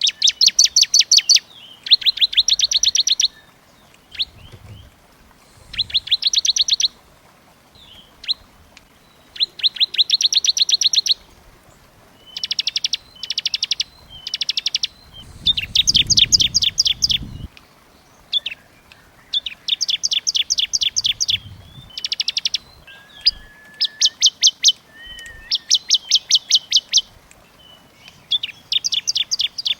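Small songbirds trilling densely: short runs of fast, evenly spaced high chips, one run after another with brief gaps. A low rumble sounds briefly about halfway through.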